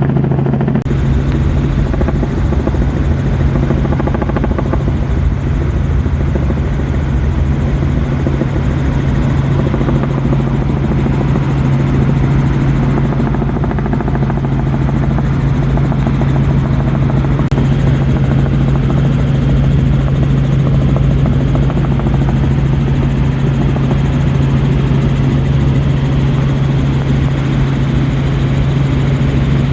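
Helicopter in flight heard from inside its doors-off cabin: a loud, steady rotor and engine drone with a constant low hum and a rush of noise over it.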